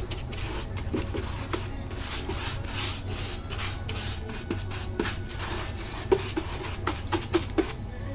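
Rubbing and scraping on wood with scattered light knocks, the knocks coming more often near the end, over a steady low hum.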